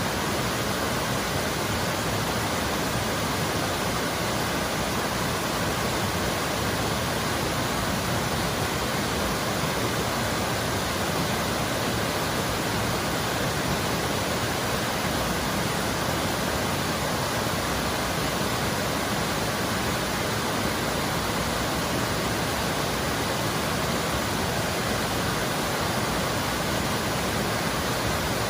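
Waterfall on a mountain creek: a steady, unbroken rush of falling water.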